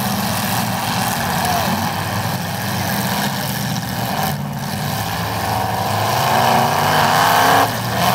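Several demolition derby cars' engines running and revving together, building to a louder stretch near the end that stops suddenly.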